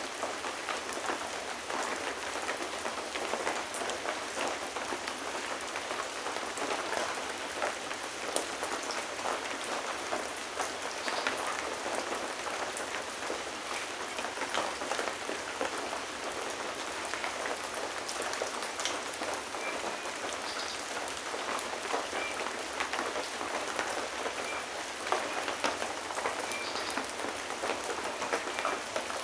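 Steady rain falling, a dense even hiss of drops with many small individual drop ticks.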